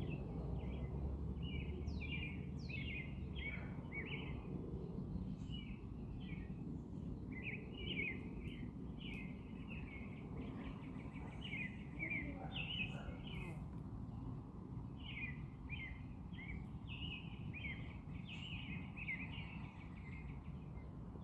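Small birds chirping over and over without a pause, with a couple of falling whistles about two seconds in, over a steady low background noise.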